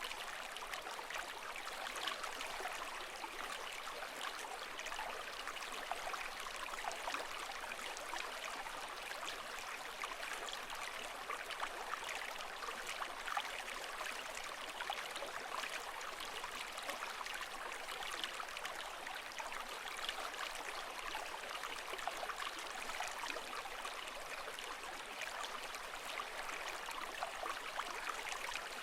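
Steady trickling, bubbling water.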